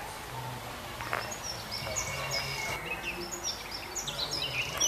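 Small birds chirping and singing, many short high notes, busiest in the second half, over a low steady background rumble.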